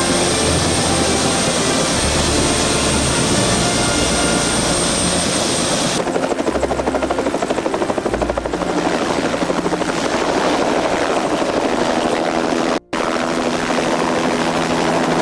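Helicopter running close by, a loud steady engine and rotor noise. After a sudden change about six seconds in, the rapid chop of the rotor blades comes through, and the sound drops out for a moment near the end.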